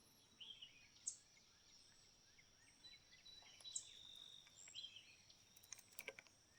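Faint outdoor ambience: scattered bird chirps over a steady high insect drone, with a few quick clicks about six seconds in.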